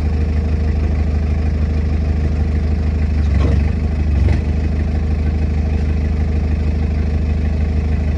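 A large engine idling steadily, with two short bursts of extra power about three and a half and four and a quarter seconds in.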